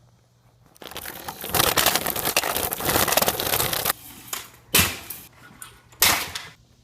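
Kick scooter wheels rolling and clattering over rough pavement for a few seconds, then two sharp smacks of the scooter hitting the ground about a second apart, as from landing a trick.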